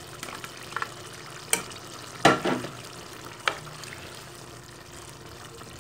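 Fried chicken pieces pushed off a plate with a spoon into a pot of cooking vegetables, the pot sizzling steadily. Sharp spoon knocks against the plate and pot, the loudest a little over two seconds in.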